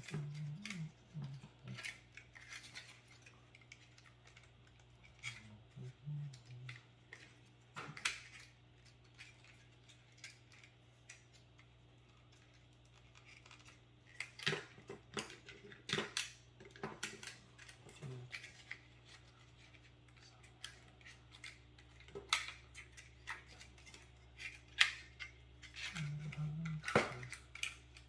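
Irregular clicks, taps and clatter of plastic and metal parts being handled while LED strips and cables are worked out of a desktop PC case, the clicks coming thickest in the second half.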